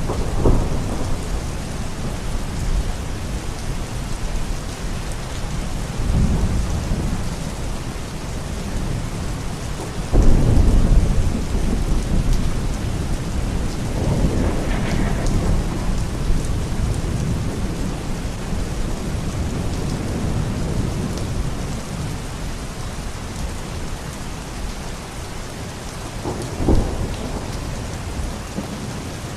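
Steady heavy rain with rolls of thunder rumbling through it, the loudest beginning about a third of the way in and a sharper clap near the end.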